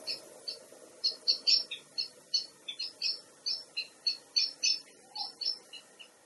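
Nightjars calling at dusk: several birds giving runs of short, clipped notes, about three to four a second, overlapping at different distances.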